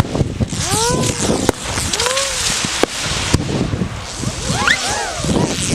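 Fireworks going off at close range: a steady crackling hiss with a few sharp bangs, and several whistles whose pitch rises and then falls.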